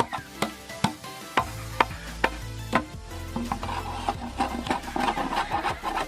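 A blade scraping and shaving a piece of bamboo, a rasping rub that grows stronger in the second half. Background music with a steady beat plays underneath.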